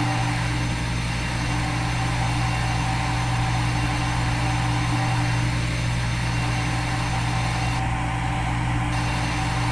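Simulated CNC milling machine running during a machining cycle: a steady mechanical hum with several fixed tones, unchanging throughout.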